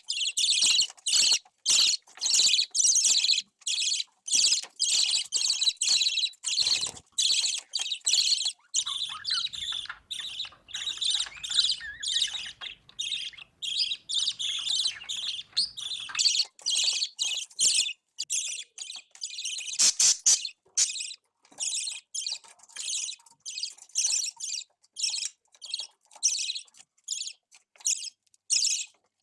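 Budgerigars chirping, a continuous run of short, scratchy high-pitched calls, several a second, running together more densely in the middle stretch.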